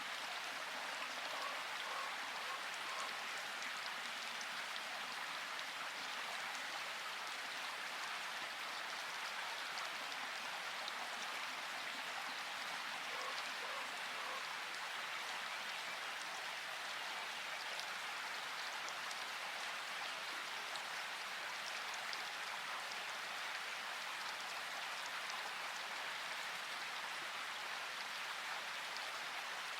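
Steady rain falling, an even hiss of many small drops that holds the same level throughout.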